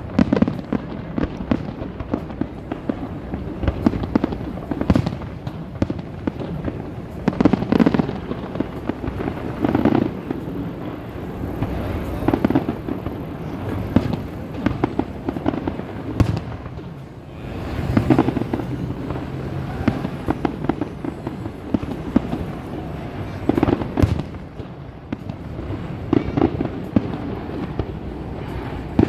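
Aerial fireworks display going off: a continuous run of bangs and crackling, with heavier booms every second or two.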